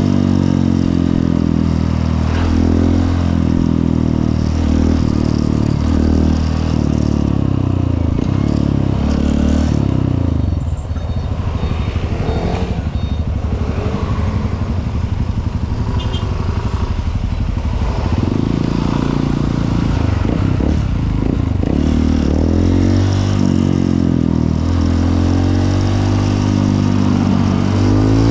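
Honda CRF150L's single-cylinder four-stroke engine running while the bike is ridden, its pitch rising and falling repeatedly as it revs up and drops through gear changes. From about 11 to 18 seconds in it eases to low revs with a slower putter, then picks up again.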